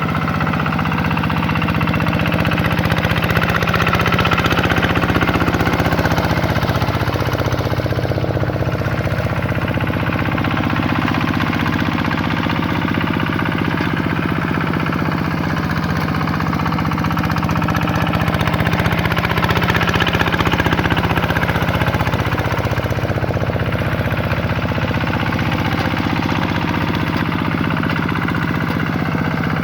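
Single-cylinder diesel engine of a Vikyno RV 125-2 hand tractor running steadily under load while working a paddy field. It swells slightly twice, about 4 and 19 seconds in.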